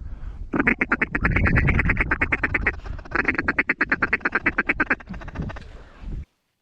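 Rapid duck quacking in two long fast runs, about ten quacks a second, over a low rumble of wind. It cuts off abruptly near the end.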